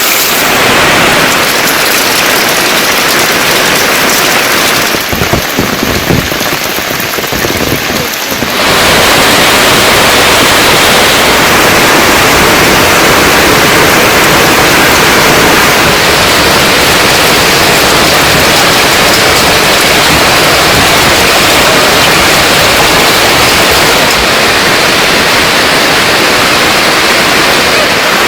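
Heavy monsoon rain falling steadily, a loud dense hiss. It grows louder and fuller about a third of the way in.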